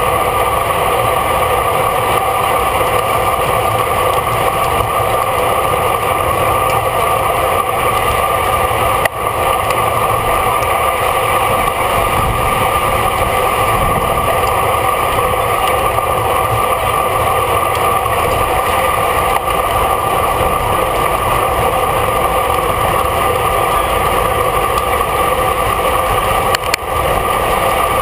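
Steady, loud rush of wind and road noise from a racing bicycle moving at speed in a bunch.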